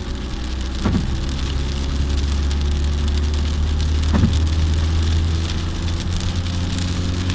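A car being driven in the rain, heard from inside: a steady low engine and road hum with rain pattering on the car. Two short thumps come about one second and about four seconds in.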